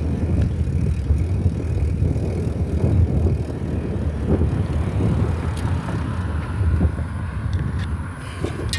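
Wind rumbling on the microphone of a moving bicycle, mixed with tyre and road noise, with a few small clicks and rattles.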